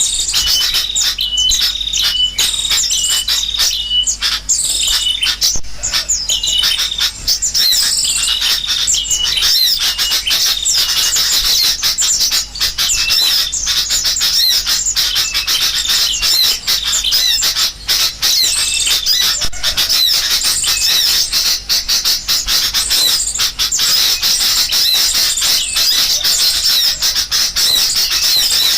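Bird-lure recording of sooty-headed bulbuls calling noisily, layered with the chatter of small songbirds: a dense, unbroken chorus of high chirps and squawks. A run of quick repeated notes stands out in the first few seconds.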